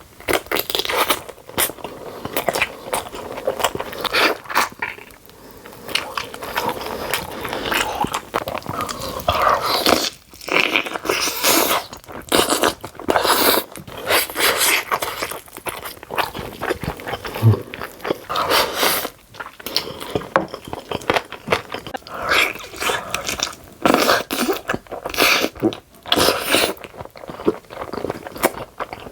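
Close-miked eating: crunchy bites into spicy, cheesy Jamaican-style chicken and chewing, an irregular run of crisp crackles.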